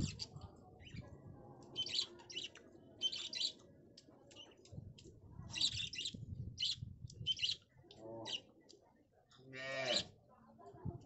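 Birds chirping in short, scattered bursts, with a louder drawn-out pitched call about ten seconds in.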